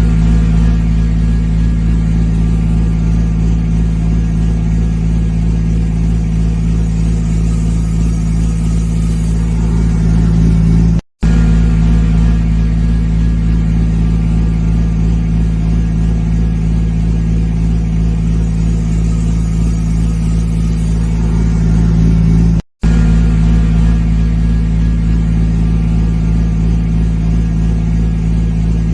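Volvo twin-steer truck's diesel engine running steadily at a constant speed. The sound cuts out for an instant twice, about a third and two thirds of the way through.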